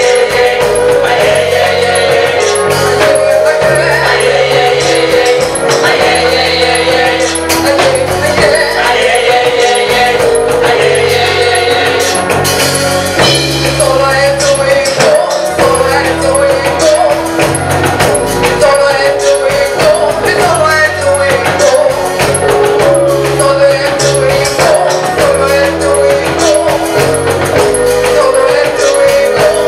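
Gospel song: a choir singing over a steady beat with tambourine and a moving bass line.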